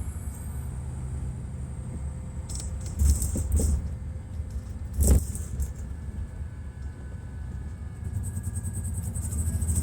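Detroit Diesel Series 60 inline-six diesel of a 2002 MCI D4000 coach running with a steady low rumble. Two short knocks come about three and five seconds in, and rattling sounds near the start of the second knock and again toward the end.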